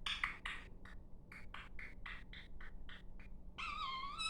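Pet talking parrot doing a mimicry routine: a rapid run of short scratchy clicks and chirps, then, about three and a half seconds in, a warbling whistled call that carries on, an imitation of an Australian magpie ending in a little woo.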